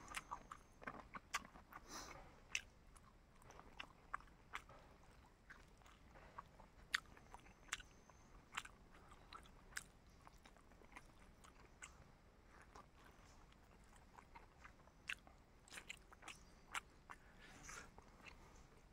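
A person chewing and biting food close to the microphone, faint, with irregular short clicks and smacks a few times a second.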